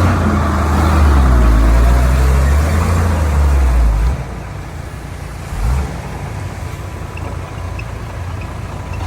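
Heavy diesel engine running hard, then easing off sharply about four seconds in to a lower, steadier running, with a brief surge just before six seconds.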